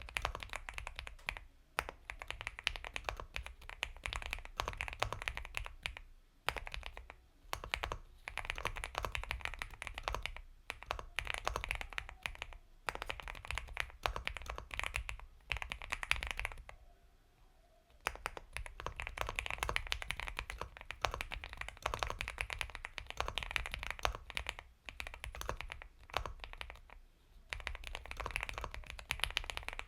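Fast continuous typing on an Epomaker x Feker Galaxy 80 mechanical keyboard with Gateron Milky Yellow Pro linear switches: soft, creamy keystrokes in long runs, with brief pauses and one longer pause about two-thirds of the way through.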